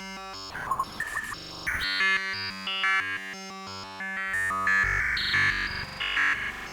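Real bird chirps run through a sampler's scatter effect, chopped and stuttered into glitchy digital chirps. Through the middle they turn into a run of buzzy, stepped pitched tones.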